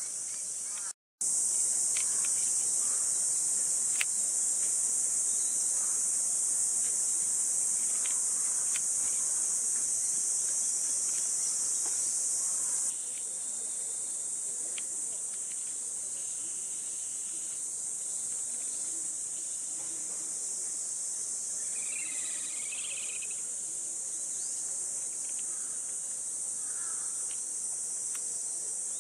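Steady high-pitched chorus of summer cicadas, louder for the first dozen seconds and a little quieter after that.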